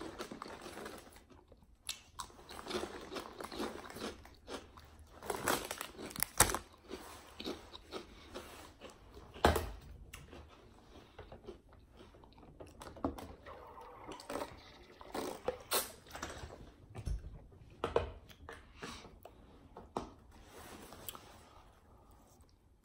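Close-miked chewing of a spicy Italian sub sandwich: wet mouth sounds and soft crunches, with a few sharp clicks scattered through.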